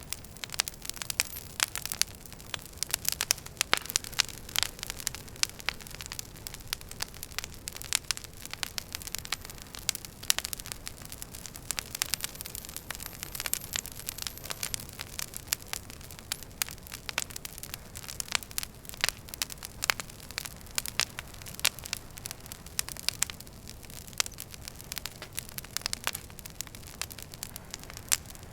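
Wood fire in a fireplace crackling, with frequent sharp pops and snaps over a steady low hiss and rumble.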